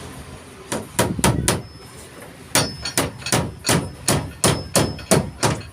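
Hammer blows on wood: four quick strikes about a second in, then after a pause a steady run of about three blows a second, as when driving nails.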